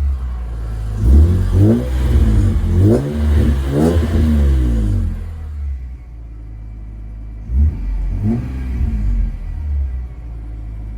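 2004 BMW M3's 3.2-litre straight-six engine and exhaust revving up and dropping back several times in quick succession, then running steadier and quieter for a couple of seconds before one more rise and fall near the end.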